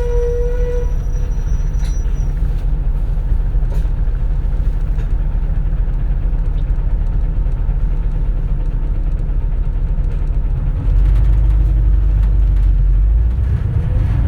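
Interior running sound of a 2004 CNG (compressed natural gas) city bus: a steady low rumble of engine and road noise inside the cabin, growing louder in the low end about eleven seconds in.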